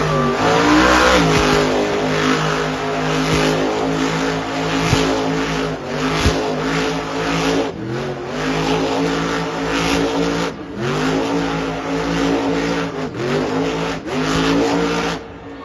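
Monster truck engine revving hard, its pitch dropping and climbing again several times as the throttle is blipped, then cutting off suddenly near the end.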